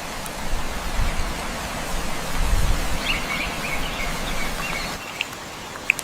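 Steady outdoor ambience, an even hiss with low rumble, with a few short bird chirps about three seconds in.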